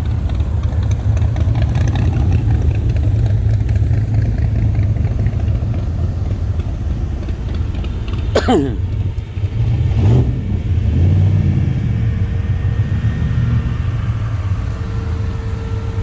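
Engines of classic cars and hot rods rumbling as they roll past, with a quick rev that drops off a little past halfway and another surge just after it.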